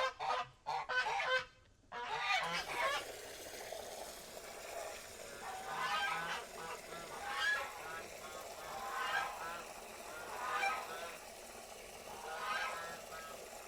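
Domestic geese honking: a loud run of honks at the start, then single honks repeating about every second and a half.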